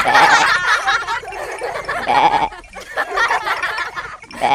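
Sheep bleating, three short calls about two seconds apart, with the last starting near the end, over a continuous jumble of wavering animal-like vocal sounds.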